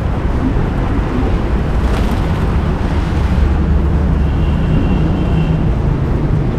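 Steady low outdoor rumble, heaviest in the bass, with a faint high tone for a second or so about two-thirds of the way through.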